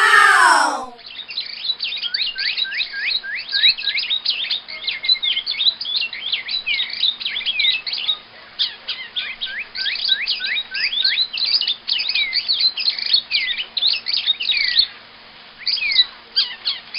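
Rapid, dense high chirping like a flock of small birds, made of many short downward-sweeping calls that thin out about 15 seconds in, over a faint steady hum. It opens with a short falling glide in the first second.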